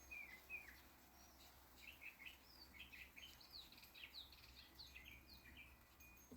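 Faint birdsong: a run of short, falling chirps, several a second, that stops about five seconds in.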